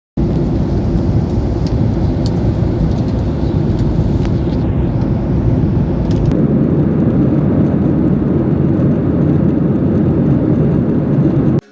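A loud, steady low rumbling noise that starts abruptly and cuts off suddenly near the end, with a few faint clicks in its first half.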